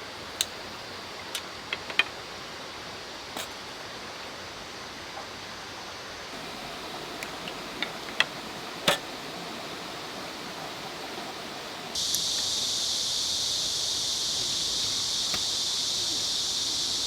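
Steady rushing of a valley stream, with a few light clicks and knocks scattered through it. About twelve seconds in the sound turns suddenly louder and hissier.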